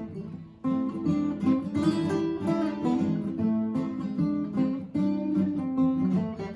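Two acoustic guitars playing a fingerpicked instrumental, lead melody over an alternating bass. The sound dips briefly about half a second in, then the picking resumes at full strength.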